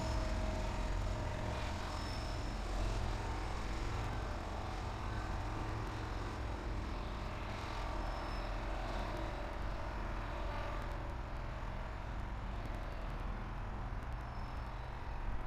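Train rumbling at a trackside camera: a steady low rumble with a few faint, short high squeals.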